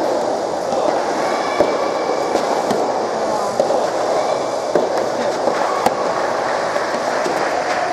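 Soft tennis match venue noise: a steady noisy background with several sharp knocks a second or more apart.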